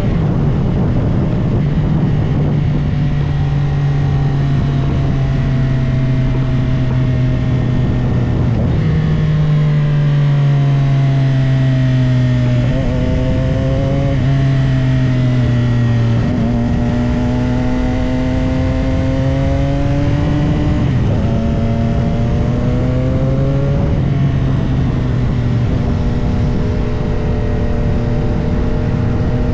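CFMOTO 675SR-R inline-three sport bike engine under way, its note holding steady, then stepping and gliding up and down in pitch several times as the bike changes gear and speed.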